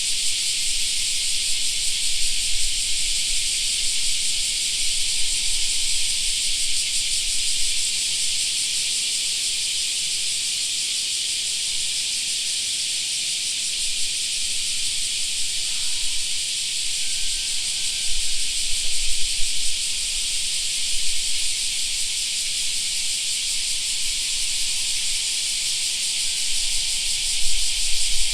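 Chorus of cicadas, a steady high shrilling drone with no break. A low rumble comes and goes underneath, strongest in the latter half.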